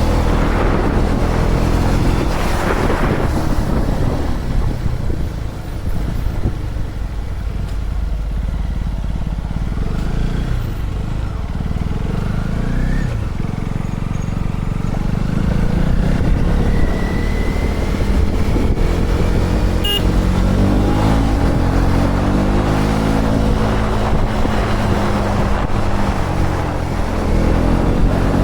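KTM Duke 250's single-cylinder engine running on the move, its revs rising and falling, under heavy wind rumble on the camera microphone.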